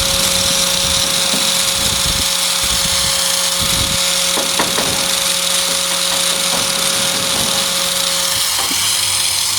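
Electric angle grinder running at a steady pitch with a hissing top, a few knocks through it. Its note drops about eight and a half seconds in.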